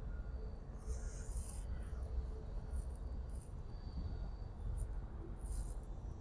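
Outdoor background of a steady low rumble with faint, short high-pitched chirps every second or so, and no aircraft passing close.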